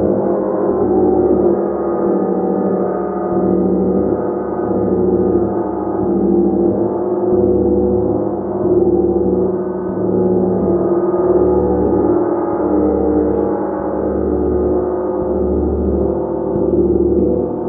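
A large gong played continuously, its dense sustained shimmer of overlapping tones swelling and pulsing every second or two as it is kept sounding.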